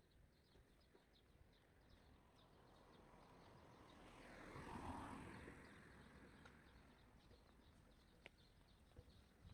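Near silence: faint outdoor ambience with light high ticking throughout, and a soft whoosh that swells and fades about halfway through.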